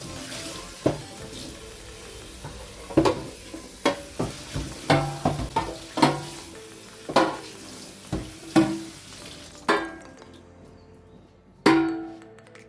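Kitchen utensils clinking and knocking against a cooking pot, about a dozen sharp strikes with a short metallic ring, over a steady high hiss that stops near the end.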